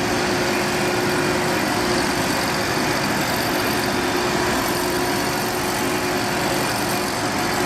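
A small engine running steadily with a constant hum, unchanging throughout.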